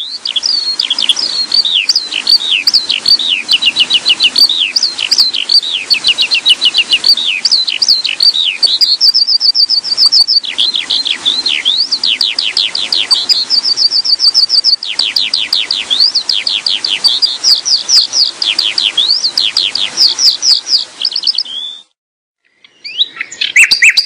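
A songbird singing fast runs of sharply down-slurred chirps, several a second, broken by short steady high trills. It stops suddenly near the end.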